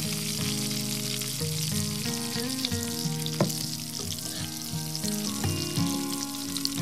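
Chicken pieces sizzling steadily as they fry in hot oil in a pan, being turned over with a slotted spoon, with one short click about three and a half seconds in. Soft background music with held notes plays over the frying.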